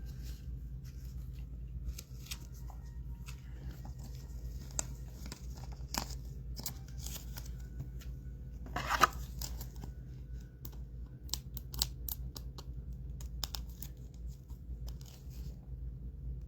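Trading card packs being torn open and the cards handled: scattered soft clicks and rustles, with one louder short tear about nine seconds in.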